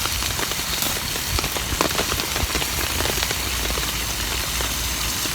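Pouring rain falling on a tarp, a steady hiss dotted with the ticks of single drops.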